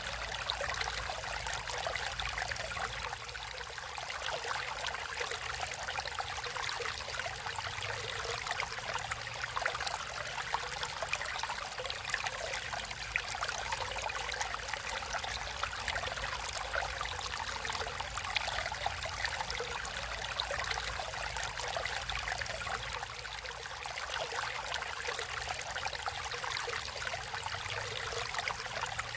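Stream water flowing steadily, with a constant fine trickle.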